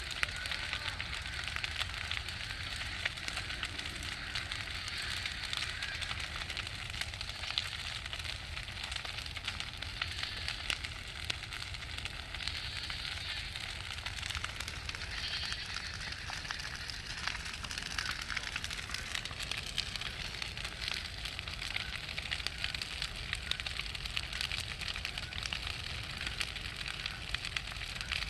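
A large bonfire crackling steadily with many small pops and snaps over a low rumble.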